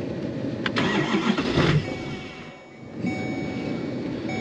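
Diesel pickup truck's starter cranking the engine, which does not catch, with a dip about two and a half seconds in before the sound resumes. The truck has a known hard-start problem that the owner hopes a new fuel pump will cure.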